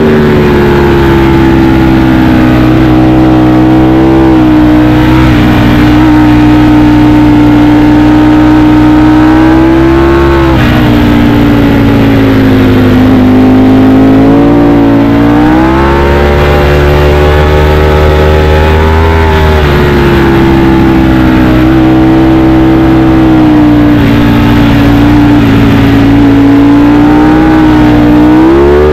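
Ducati Panigale V4 S's V4 engine running hard at high revs through a string of bends, its pitch sagging off and climbing back up several times as the throttle is eased and reopened.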